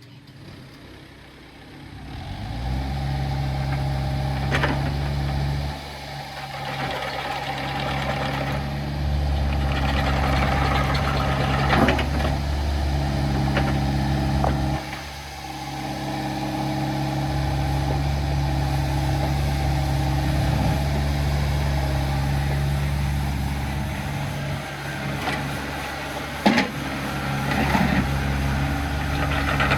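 Kubota U48-4 mini excavator's four-cylinder Kubota diesel engine running, its level rising about two seconds in and then dipping and picking up again a couple of times. A few sharp clanks stand out over it.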